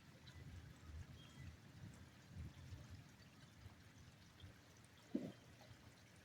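Near silence: a faint, steady low rumble, with one short faint sound about five seconds in.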